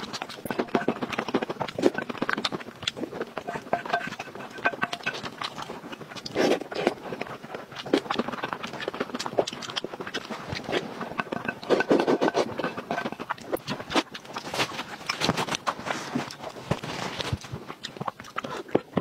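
Close-miked chewing and mouth sounds of a person eating braised pork belly: many quick, irregular clicks and smacks.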